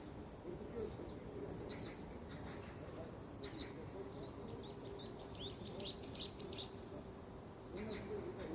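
Wild birds chirping: short high calls, with a quick run of chirps in the middle, over steady outdoor background noise.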